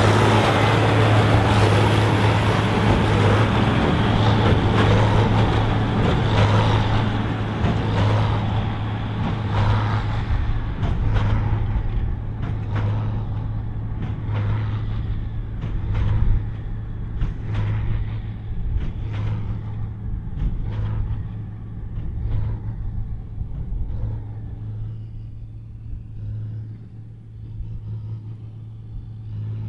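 John Deere 4955's six-cylinder turbo diesel running under heavy load pulling a Krone BigPack big square baler, with a regular knock about once a second from the baler's plunger. The sound slowly fades as the outfit moves away.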